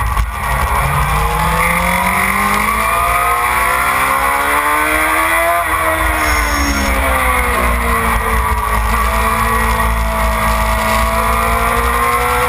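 Suzuki sportbike engine at racing speed, heard from on board with heavy wind rumble on the microphone. The engine pitch climbs steadily for about five seconds, drops as the rider rolls off the throttle, then climbs slowly again.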